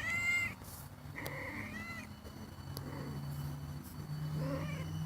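Domestic cat meowing: two clear meows in the first two seconds, then a fainter one near the end.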